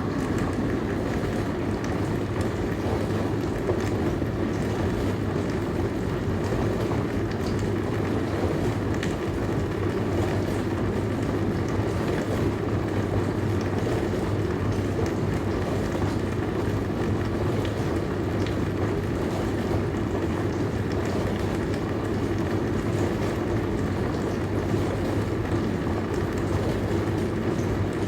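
Dishwasher running: a steady low hum under an even rush of water spraying inside the tub.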